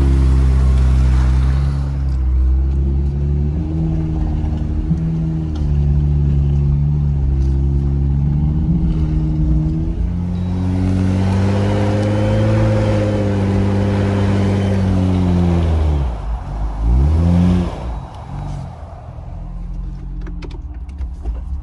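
Jeep Wrangler engine running under load in mud, its revs rising and falling in steps. About sixteen seconds in, the revs drop away and then come back in several short blips.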